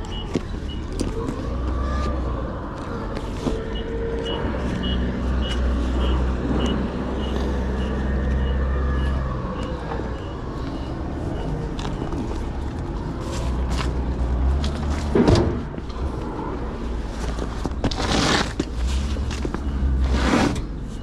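A heavy vehicle's engine running with a steady low rumble, joined for the first half by a high, evenly repeated beeping at about two beeps a second. A few short, loud bursts of noise come in the last seconds.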